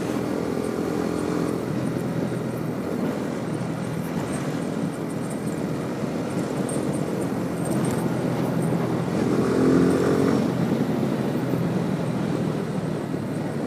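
Motorcycle engine running on the move under a steady rush of wind over the microphone; the engine note comes up louder about nine seconds in, then drops back.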